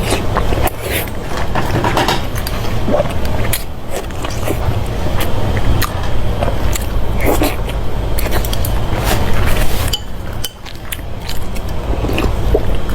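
Eating sounds: chewing, with frequent short clicks and clinks of utensils against a dish, over a steady low rumble.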